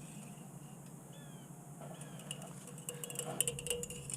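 Quiet light clinks and ticks, most of them in the last second or so, over a low steady background hum, with a few short high chirps about a second in.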